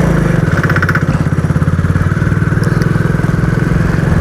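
Motorcycle engine running steadily at a low, even pace while the bike is ridden, with a fast regular exhaust pulse.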